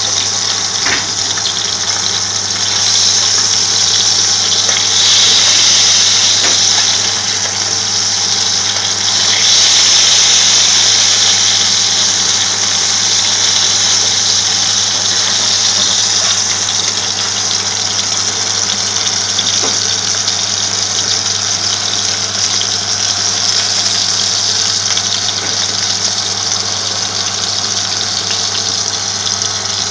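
Shami kababs shallow-frying in hot oil in a pan: a steady, loud sizzle that swells a little twice in the first twelve seconds or so, over a steady low hum.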